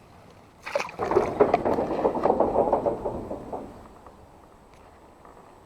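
Water splashing and sloshing for about three seconds, in quick irregular strokes, then dying away to a low background.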